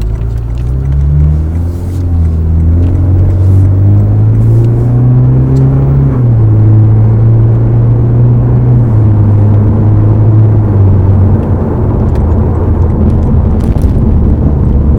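Lexus RC's engine through a Remark axle-back exhaust, accelerating: the pitch climbs for about six seconds, drops at a gear change, then holds fairly steady before falling again about eleven seconds in.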